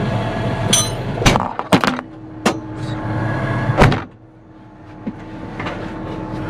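Tractor engine running, with a series of sharp metal clanks and knocks from hitching up. A loud bang near the end of the fourth second is followed by a much quieter steady hum.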